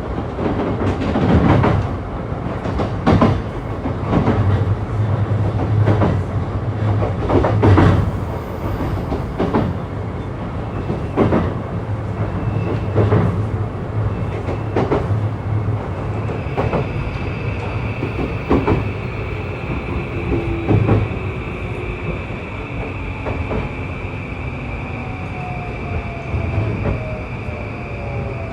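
Interior running noise of an E235-1000 series electric train as it slows into its terminus: wheels click over rail joints and points against a low rumble. From about halfway a steady high tone sets in, and near the end faint motor whines fall in pitch as the train brakes.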